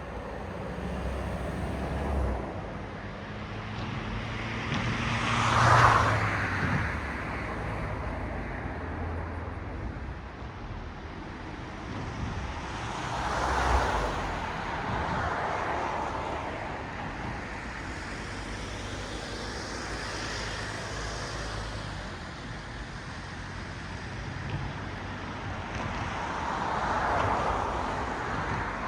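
Cars passing one after another on a road, each pass a swell of tyre and engine noise that rises and fades. The loudest pass comes about six seconds in, with further passes around the middle and near the end over a steady background of traffic.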